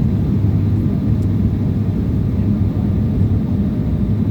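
Steady low drone of aircraft engines and airflow heard inside the cabin in flight, an even rumble with a hum near its bottom and no breaks.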